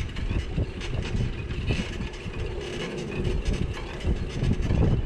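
Riding noise from a bicycle filmed on a GoPro: a rumble of wind and road on the microphone with a constant clattering rattle from the bike as it rolls along.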